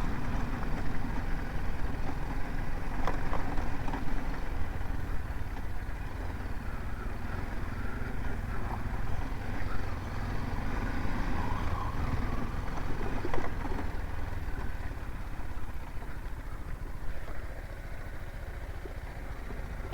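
BMW G 310 GS motorcycle's single-cylinder engine running steadily under way, mixed with wind and road noise. A couple of brief knocks come through, one a few seconds in and one about two-thirds of the way through.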